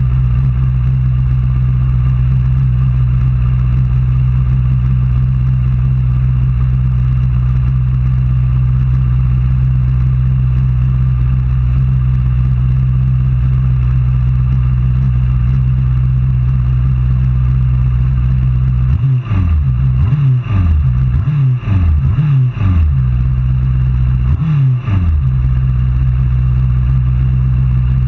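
Racing superbike engine running hard at a steady pitch, then, about two-thirds of the way in, five or six quick falls and rises in pitch before it settles back to a steady note.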